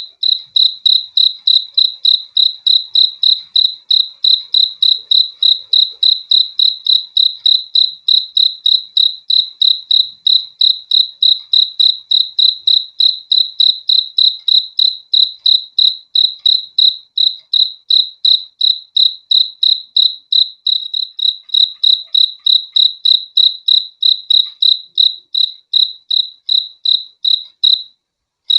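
A cricket chirping close up, a high-pitched chirp repeated evenly about three times a second; the chirping stops for a moment near the end.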